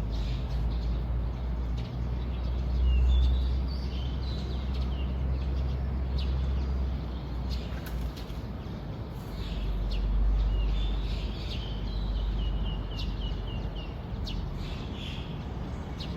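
Several small birds chirping, with short calls and a run of quick trills near the end, over a steady low rumble that swells about three seconds in and again about ten seconds in.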